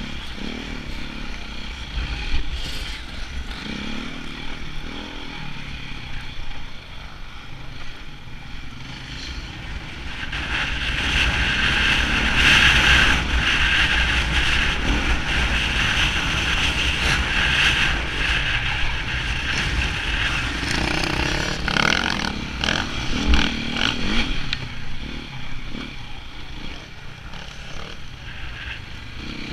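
KTM enduro motorcycle engine, heard from on the bike, running under load over rough dirt. About ten seconds in it revs harder and louder, pulling up a steep sandy climb for some ten seconds, then eases off.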